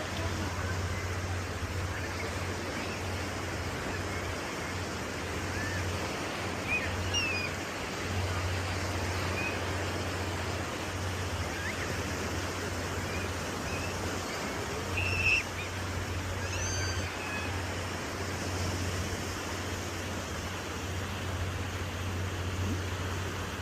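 Steady rushing noise of ocean surf and wind, with a low rumble that comes and goes and scattered faint, short high chirps.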